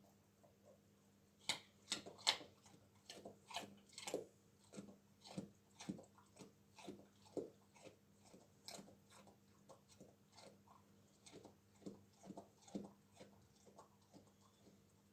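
A dog crunching and chewing a raw carrot: irregular crisp crunches, about two a second, beginning about a second and a half in and thinning out near the end.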